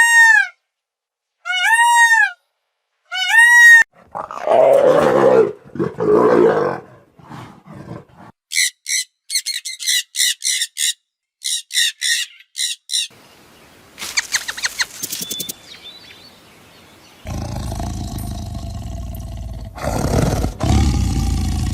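A series of different animal calls one after another: four short arched calls, then a rough, low roar lasting a few seconds, then a quick run of high calls, then fainter, noisier animal sounds.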